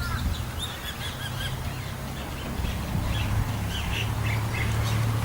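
Birds calling and chirping repeatedly, over a steady low hum.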